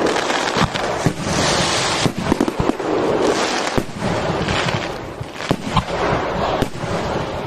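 Fireworks going off in a dense barrage: rapid bangs and crackling, dying away near the end.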